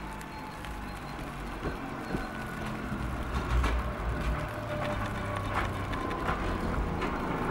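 Budapest cog-wheel railway electric railcar passing close by: a steady whine from its motors that sinks slowly in pitch, a low rumble, and a few sharp clicks and knocks from the wheels on the track, growing louder as it approaches.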